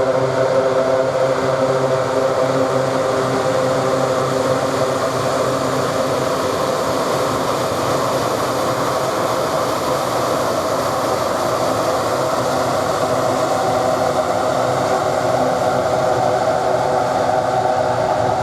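Lockheed C-130T Hercules's four Allison T56 turboprop engines running with a steady, even propeller drone made of several held tones.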